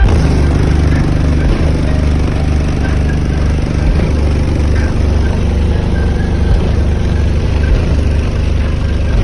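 Heavy, steady bass from car-audio 18-inch subwoofers playing loud, with a deep low rumble that barely changes.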